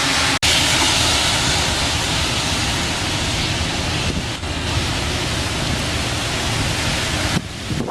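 Strong tropical-storm wind gusting, with driving rain, buffeting the microphone in a steady loud roar. The noise drops for an instant shortly after the start and eases briefly near the end.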